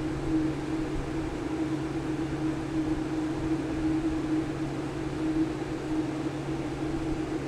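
Steady background hum with a low drone and an even hiss, unchanging throughout, like a fan or other small machine running.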